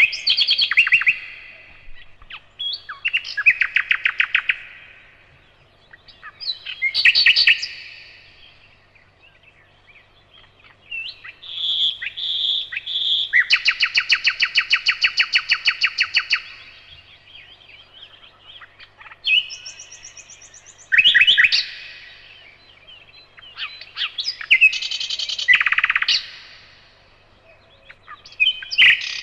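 Nightingale singing: a series of separate phrases a few seconds long, mostly fast runs of repeated notes, with short pauses between phrases.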